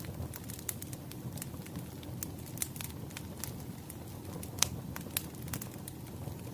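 Wood fire crackling, with irregular sharp pops and snaps over a low steady rumble. One pop about two-thirds of the way through is louder than the rest.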